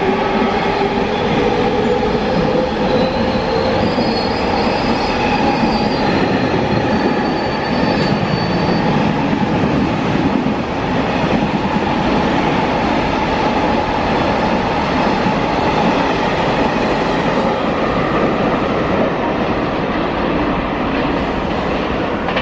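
A freight train running past, a loud steady noise of wheels on rails. Thin high-pitched wheel squeals come and go in the first half.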